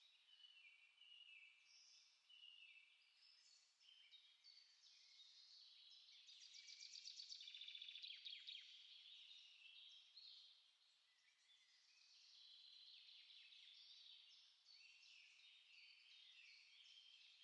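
Small songbirds singing, several overlapping chirps and short phrases with no pause between them. A fast rapid trill about six to eight seconds in stands out as the loudest part.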